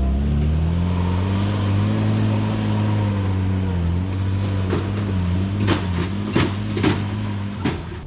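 Vehicle engine running steadily at low revs, its pitch drifting gently, with several sharp knocks in the second half. The engine note stops near the end.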